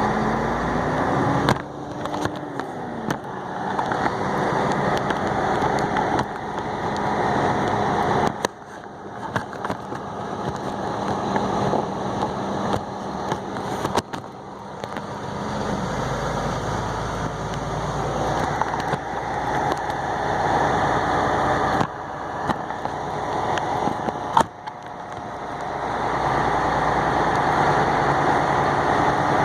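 Truck engine and road noise while driving. The sound drops off sharply about five times and builds up again after each drop.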